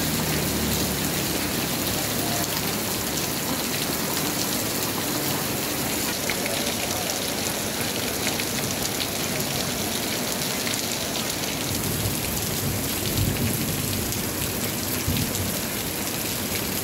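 Rain falling steadily: an even hiss dotted with the small taps of individual drops.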